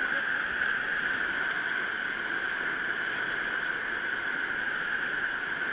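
Steady rush of water flowing over rocks in a mountain stream, an even hiss that does not change.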